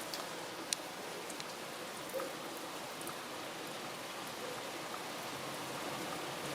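Steady rain falling, with a few sharp drips landing close by.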